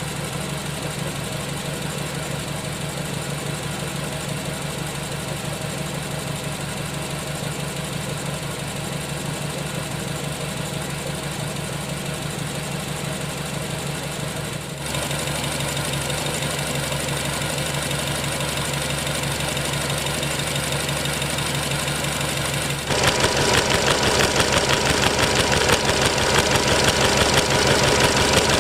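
Nissan Tiida petrol engine idling with a misfire, a fault the uploader links to low compression. The engine sound is steady, stepping up in loudness about halfway through and again, brighter, about three-quarters through.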